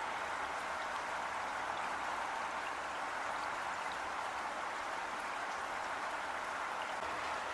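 Heavy rain falling steadily, an even hiss of water with faint scattered drop ticks.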